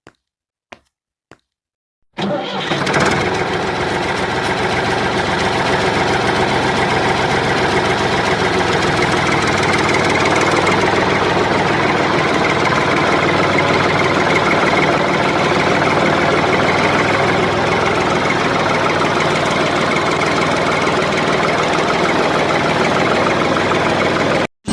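A few light clicks, then about two seconds in an engine starts and runs steadily and loudly for about twenty seconds before cutting off abruptly.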